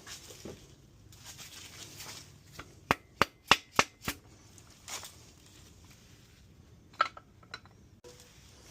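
A mallet tapping a greased engine part into place: a quick run of about five sharp knocks some three seconds in, then a few lighter taps. The part goes in with difficulty.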